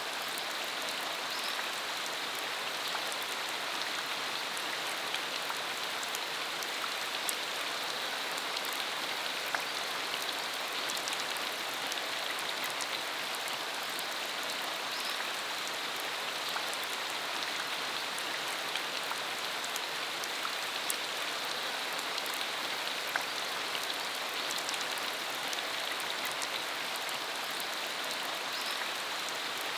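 Steady rain falling, an even hiss with scattered individual drops ticking sharply on the surface.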